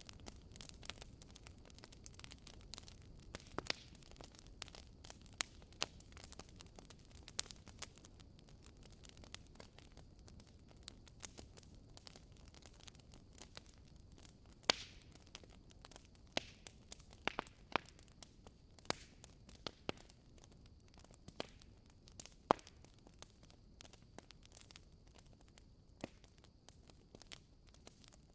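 Wood fire in a fireplace crackling, with irregular sharp pops and snaps from the burning logs over a low steady rumble of the flames.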